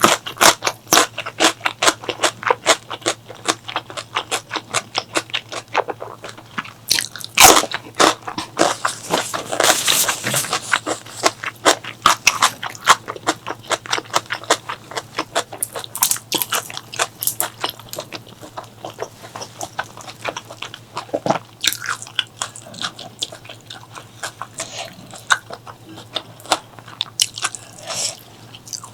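Close-miked chewing of food: rapid crunching clicks several times a second, with a louder, noisier stretch about nine to eleven seconds in, and slower chewing in the later part.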